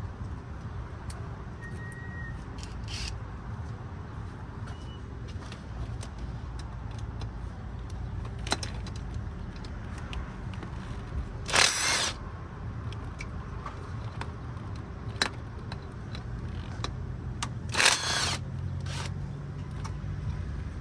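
Scattered metallic clinks and taps of hand tools and exhaust parts being handled, with two louder short scraping rasps about halfway through and near the end, over a steady low outdoor rumble.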